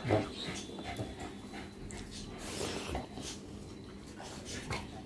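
Close-miked eating sounds: wet chewing and mouth smacks, with fingers squishing rice and chicken curry on a plate. It is a run of irregular short clicks, loudest just after the start.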